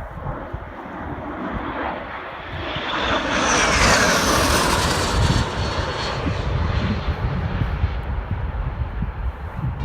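Low-flying military aircraft passing by, building to its loudest about four seconds in with a high whine that falls in pitch as it goes past, then fading, over wind rumbling on the microphone.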